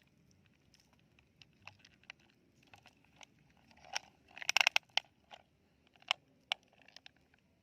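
Toy bulldozer scooping sand and gravel: scattered light clicks and crunches, with a dense burst of crunching about four seconds in.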